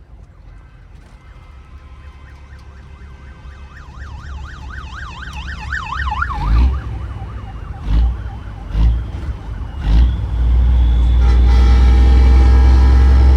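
A siren wailing, then yelping rapidly and growing louder, followed by several short loud horn blasts and, from about ten seconds in, a long steady blast from a truck-mounted train-style air horn, a Nathan Airchime P3.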